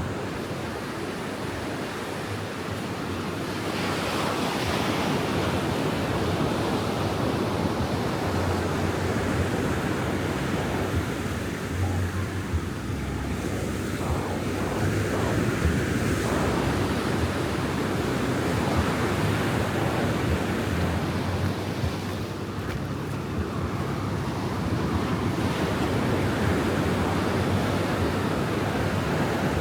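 Ocean surf breaking and washing up the beach in a continuous, swelling rush, with wind buffeting the microphone.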